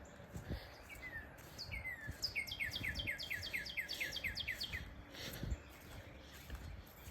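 A songbird singing: a couple of slurred downward notes, then a quick run of about a dozen down-slurred notes, roughly five a second, ending a little before the last two seconds.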